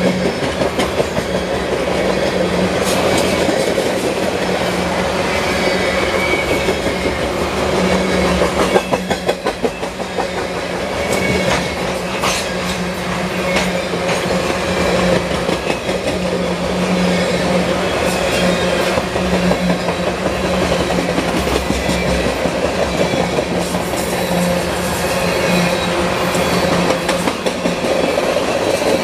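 Freight train's covered hopper cars rolling past at speed: a steady rumble of steel wheels on rail, with repeated clicking as the trucks cross rail joints, a quick run of clicks about nine seconds in, and faint thin wheel squeals now and then.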